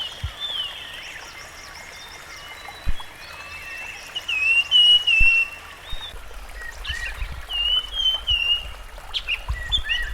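Rusty-fronted Barwing calling: a run of short, wavering whistled chirps, loudest in a burst near the middle, with a low rumble underneath in the second half.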